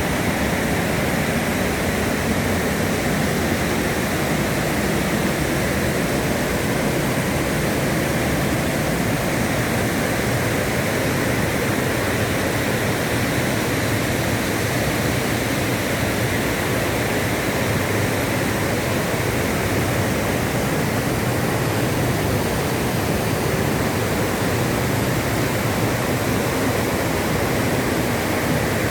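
River waterfall rushing, a loud steady roar of falling water.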